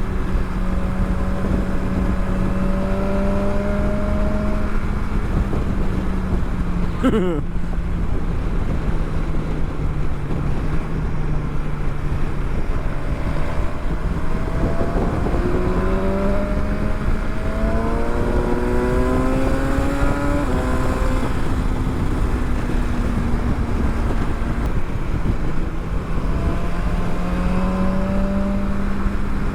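Motorcycle engine heard on the move over heavy wind and road rumble, cruising steadily, then accelerating up through several gears in the middle, its pitch climbing and dropping back at each shift.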